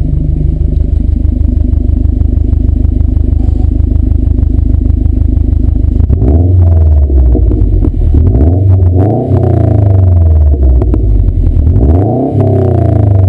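2011 Subaru WRX's turbocharged flat-four engine idling steadily through a CNT cat-back exhaust, then revved three times, about six, nine and twelve seconds in, each rev climbing in pitch and dropping back to idle.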